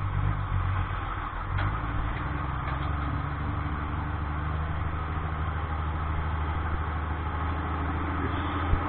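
Vehicle engine running at a steady pace while driving: a low, even drone with road noise over it.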